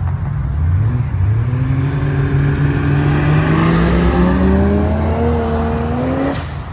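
A car engine accelerating hard under load, its pitch climbing steadily for about five seconds over a deep rumble, then dropping away near the end.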